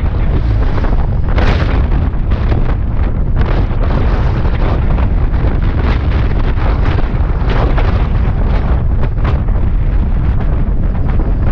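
Heavy wind buffeting and crackling on the microphone of a Suzuki Bandit 650S motorcycle ridden at road speed, over a steady low rumble from the bike and the road.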